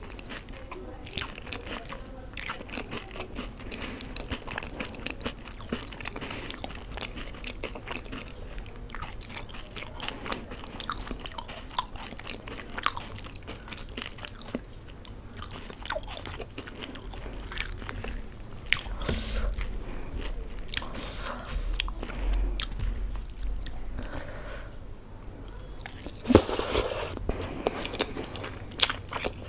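Close-miked eating of crisp, yogurt-topped Indian chaat: crunching bites, wet chewing and lip smacks with many small clicks, and a louder bite near the end.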